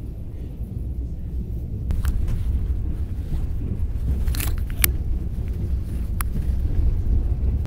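Low, steady rumble of a moving train heard from inside the passenger carriage. A few short sharp clicks sound over it.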